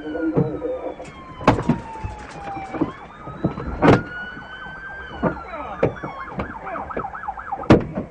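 Police car siren wailing in slow rising and falling sweeps, switching to a rapid yelp about six seconds in. Sharp knocks cut through it, the loudest about one and a half, four and nearly eight seconds in.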